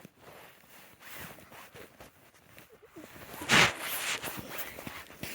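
Snow and ice being dug and scraped by hand, in a run of short crunches and scrapes, with one louder scrape about three and a half seconds in.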